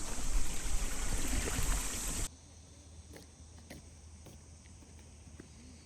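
Wind buffeting the microphone over a high insect drone, cutting off abruptly a little over two seconds in. A faint high insect hum and a few light clicks follow.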